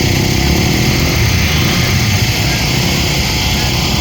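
Dirt bike engines running at a motocross race, a loud steady mechanical drone.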